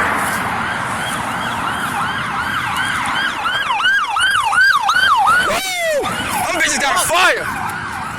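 Fire engine siren yelping rapidly, about two and a half cycles a second, growing louder as it approaches. Its pitch drops sharply about six seconds in as it passes.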